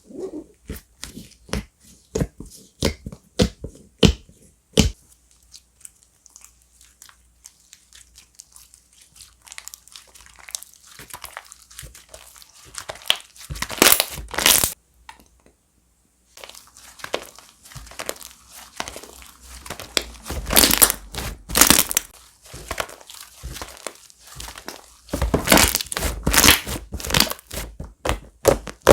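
Slime being squished, pressed and stretched by hand: a run of sticky clicks, pops and crackles, with louder bursts of crackling about halfway through and again near the end.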